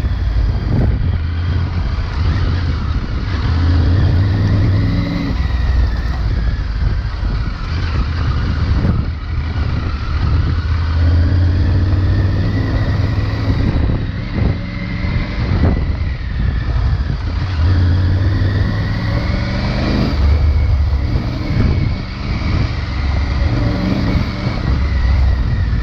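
Triumph Tiger 900 Rally Pro's 888 cc three-cylinder engine through its stock exhaust, revving up and easing off again and again as the bike is ridden over a dirt trail. A few sharp knocks break in along the way.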